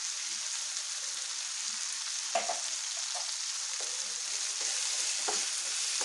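Eggplant pieces, shallots and garlic frying in oil in a frying pan: a steady sizzling hiss, with a few light clicks.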